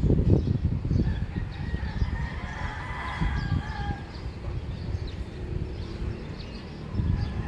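A rooster crowing once, a single drawn-out call about two seconds in, over a low rumbling background.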